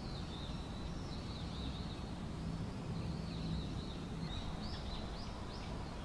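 Small birds chirping over a quiet, steady outdoor background, with a few sharper chirps near the end.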